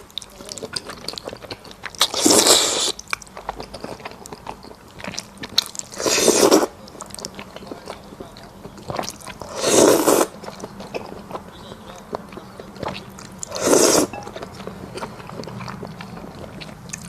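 Close-up eating sounds: steady chewing with small wet clicks, broken by four louder, noisy mouthfuls about every four seconds.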